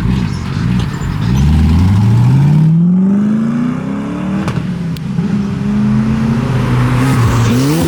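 A car engine under hard acceleration as it pulls away: the revs climb steadily for about three seconds, dip at a gear change, then climb again and hold.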